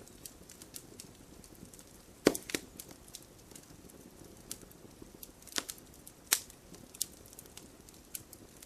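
Burning campfire wood crackling: sparse, irregular sharp pops over a soft low hiss, with the loudest pop about a quarter of the way in.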